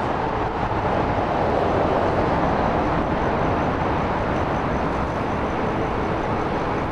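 Steady rushing road noise of an e-bike ride through a tunnel, swelling slightly about two seconds in.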